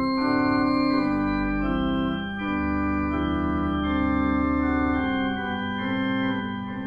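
Organ playing sustained chords with a low pedal bass, the chords changing about every second.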